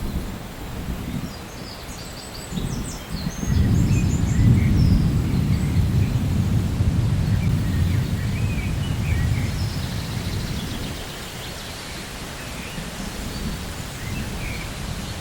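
Thunder rolling over steady rain: a deep rumble swells about three and a half seconds in, holds, then slowly dies away after about eleven seconds.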